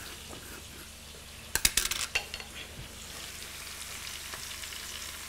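Chicken pieces frying in oil in a pan, a steady soft sizzle, with a short run of sharp clicks a little under two seconds in.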